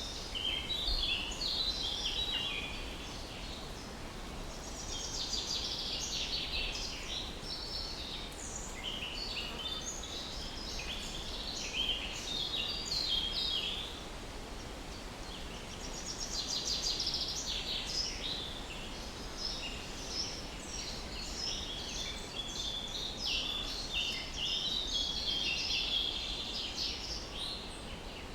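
Several songbirds chirping and singing in overlapping phrases, with rapid trills around five and seventeen seconds in, over a steady low rumble.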